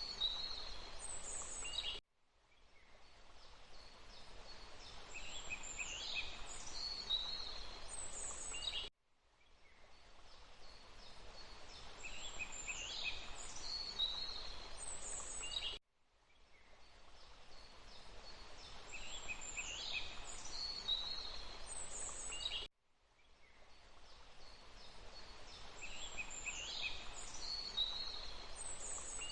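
Short looped forest-ambience recording: a steady hiss with a cluster of quick, falling bird chirps near the end of each pass. It cuts off abruptly and fades back in about every seven seconds, four times.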